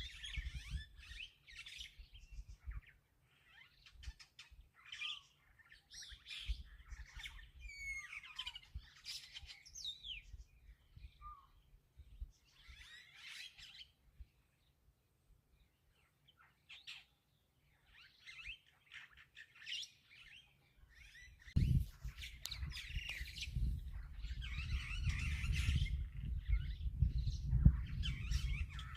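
Wild birds chirping and calling in short bursts and trills, with a few quiet seconds around the middle. About three quarters of the way in, a low rumble sets in under the birdsong and stays louder than it.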